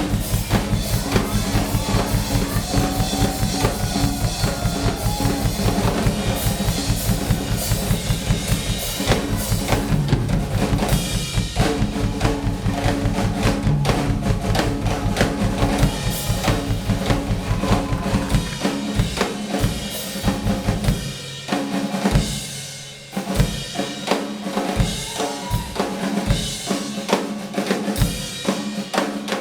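Live band playing with a drum kit driving a steady, dense beat over sustained bass notes; about two-thirds of the way through the bass drops out and the drums break into sparser, separate hits, with a brief lull before the groove picks back up.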